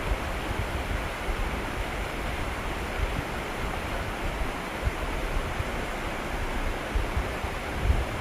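Steady rushing noise of moving water, with irregular low rumbling thumps now and then, more of them near the end.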